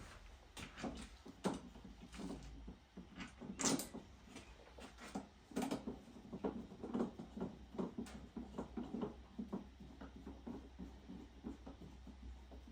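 Irregular plastic clicks and knocks from fitting and screwing the handle onto a Kärcher K5 pressure washer's plastic body. There is a sharper click about four seconds in, and the knocking gets busier from about five seconds in.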